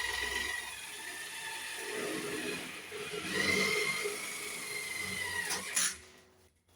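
Electric drill whining as it drives self-drilling screws into sheet metal. It runs in spurts, the longest from about three seconds in, and stops sharply just before six seconds.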